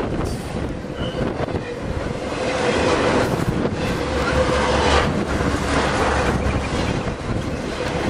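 Intermodal freight train's cars carrying truck trailers rolling past close by: steady steel-wheel rumble with clacking over rail joints and a faint steady whine, swelling louder in the middle.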